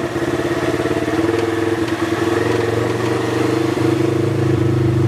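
Polaris RZR side-by-side's engine running steadily as it is driven, its note holding and getting a little louder in the second half.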